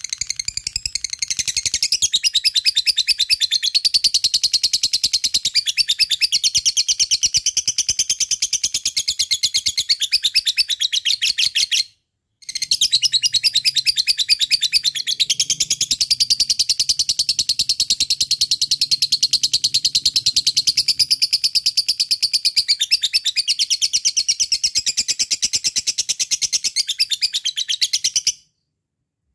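Lovebird singing its long 'ngekek' song, a very fast, high, chattering trill held without a break. It runs in two long bouts, parted by a short pause about twelve seconds in, and stops about a second before the end.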